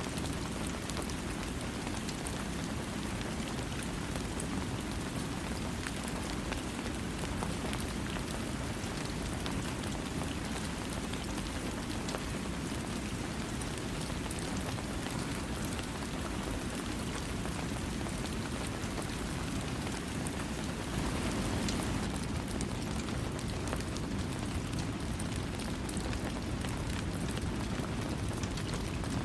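Steady rain falling, an even hiss of pattering drops with a deeper rumble underneath and no thunder; it swells a little about two-thirds of the way through.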